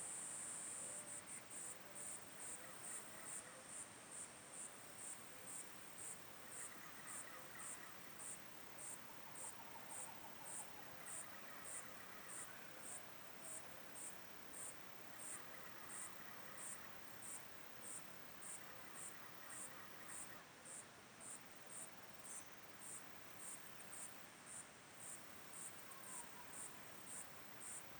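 A high-pitched insect call: a continuous trill that breaks about a second in into steady, evenly spaced chirps, roughly three every two seconds. Faint, patchy calls sound in the background.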